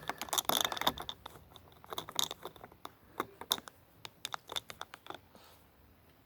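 Irregular clicking and scraping of die-cast model car parts being agitated in a glass jar of caustic soda solution to loosen the paint. The clicks come thick at first, thin out and stop about five seconds in.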